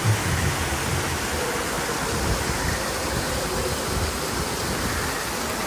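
Waterfall pouring, a steady rushing noise of falling water.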